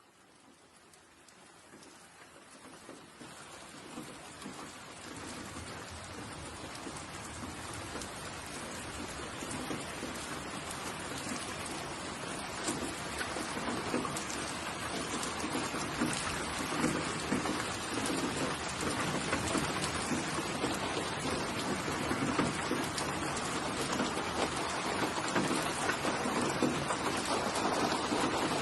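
Steady rain falling on a surface, a dense patter of drops that fades in from near silence and builds gradually over the first several seconds before holding steady.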